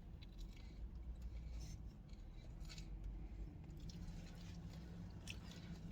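Faint scattered clicks and rustles of objects being handled at the table, over a low steady hum.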